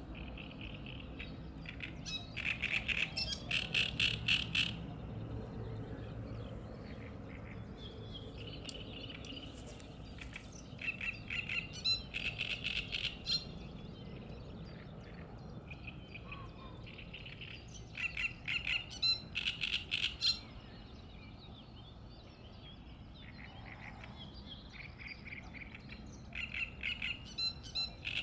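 A songbird singing in phrases of rapid, chattering notes. The loudest phrases come about every six to eight seconds, each a couple of seconds long, with quieter phrases in between, over a faint low rumble.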